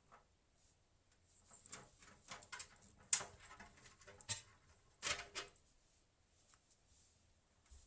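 Faint, irregular clicks and rustles of something being handled, loudest around three and five seconds in.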